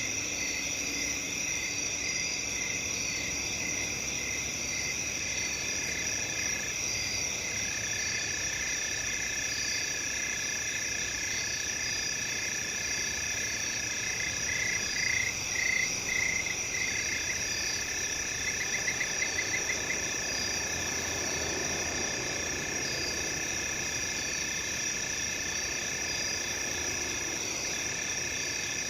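Night chorus of crickets and other insects: several steady high-pitched trills overlap with a regular chirping at about two chirps a second. Louder chirps come about halfway through, followed shortly by a fast trill.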